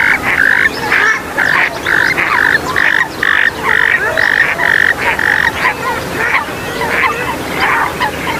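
Swamphens and moorhens calling: a run of harsh repeated calls about three a second for the first five seconds or so, over a busy background of short squeaks and chirps.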